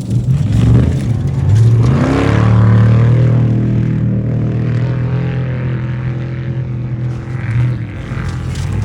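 Off-road race vehicle's engine running hard, its pitch climbing in the first couple of seconds as it accelerates, then holding a loud, steady drone.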